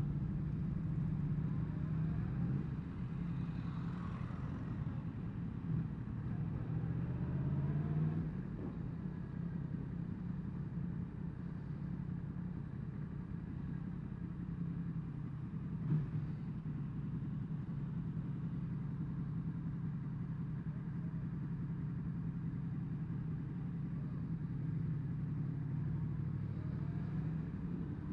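Yamaha MT-10 SP's crossplane inline-four engine running at low revs in slow town traffic. The revs rise and fall a few times in the first several seconds, and there is one short click about halfway through.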